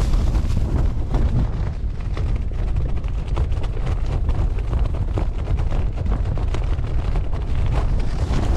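Strong wind buffeting the microphone in a steady low rumble, with many small irregular rustles and crunches over it from tent fabric and snow being moved.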